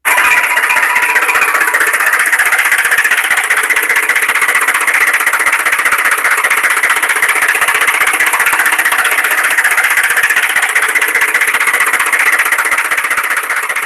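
Small electric motor running with a steady, rattling buzz. It starts suddenly and eases off slightly near the end.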